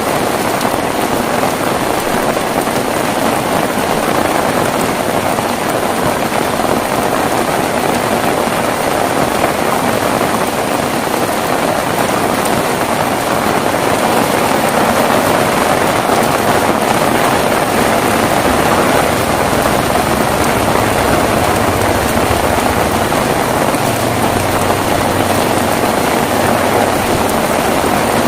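Heavy rain falling steadily, an even hiss of many drops. In the second half a low rumble rises under it.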